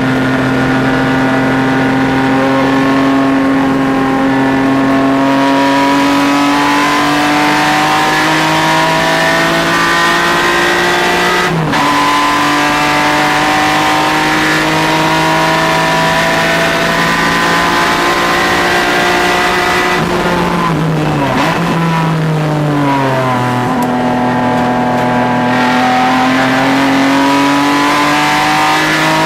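A car's engine at full throttle on a track lap, its pitch climbing steadily, with a sudden drop about a third of the way through as it shifts up. Around two-thirds of the way through the revs fall in several quick steps as it shifts down, then the engine pulls and rises again near the end.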